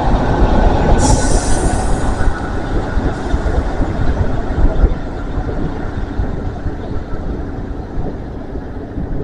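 Train moving through the station: a steady rumble of wheels on the rails that slowly eases off, with a short burst of high hiss about a second in.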